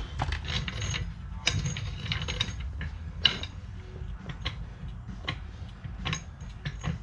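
Irregular metallic clicks and clanks of hand tools working on a car's front suspension to free the lower ball joint from the control arm, with one sharper knock about three seconds in.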